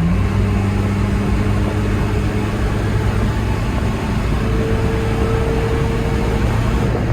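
1992 Mitsubishi Pajero's turbo diesel engine and road noise heard from inside the cabin while it picks up speed on a highway: a steady drone, with a faint higher whine for a couple of seconds in the second half.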